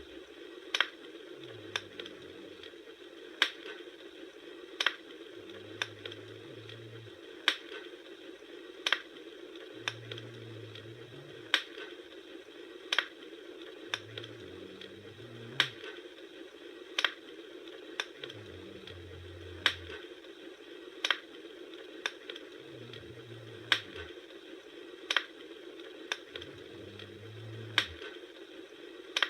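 Bonfire crackling: sharp wood pops at a very even pace, about one every second and a half, over a steady hiss with a soft low rumble coming and going.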